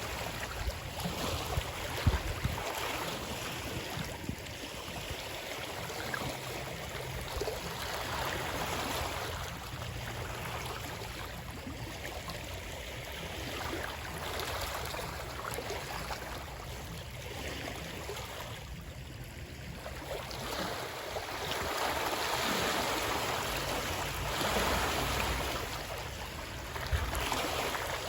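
Running water: a steady rush that swells and eases in level, with a brief louder thump about two seconds in.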